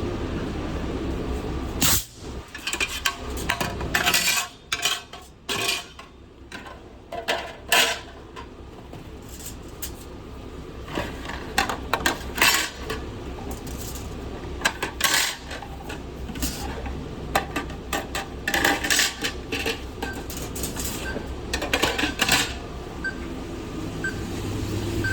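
Metal pans, trays and utensils clattering and clinking as they are handled in a fast-food kitchen, a long run of irregular sharp knocks and clanks. A steady hum of kitchen equipment lies beneath, dropping away about two seconds in and coming back near the end.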